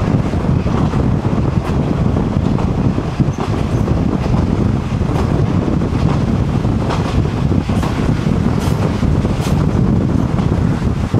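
Kominato Railway KiHa 200 diesel railcar running at speed: a steady low rumble with irregular clicks of the wheels over rail joints.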